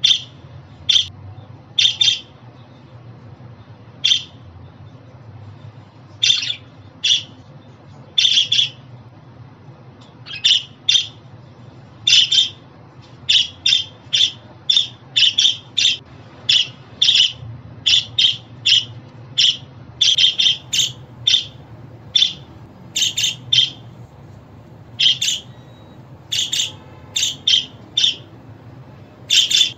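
Budgerigars giving short, sharp chirps and squawks one after another at an uneven pace, sometimes in quick runs of two or three.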